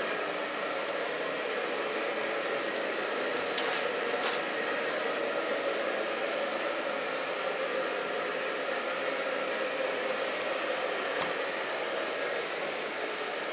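Electric blower fan of a Christmas inflatable decoration running steadily, keeping it inflated, with a brief click about four seconds in.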